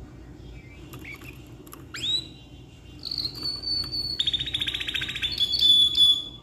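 Domestic canary singing: a couple of quick rising chirps, then a held high whistle, a fast rattling trill and another held whistled note near the end.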